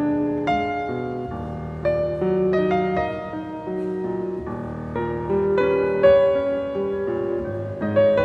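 Solo acoustic piano playing a classical piece, with chords and melody notes struck every half second or so.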